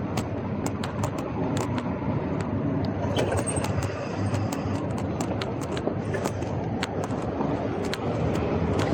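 Scott Scale Gravel 10 gravel bike being ridden on a street: a steady rumble of tyres on the road surface, broken by frequent sharp, irregular clicks and rattles.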